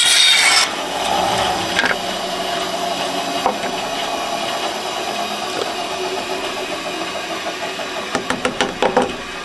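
A power tool cutting wood stops about half a second in. A steady mechanical hum follows, with scattered knocks of wood being handled and a quick run of clicks near the end.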